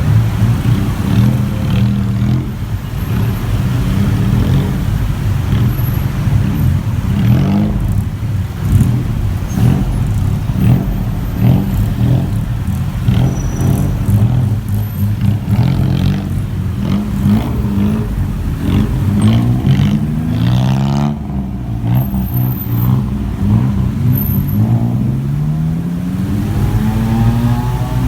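Motorbike engine running in heavy traffic, with the pitch rising several times as it accelerates, especially near the end, over the steady noise of surrounding vehicles.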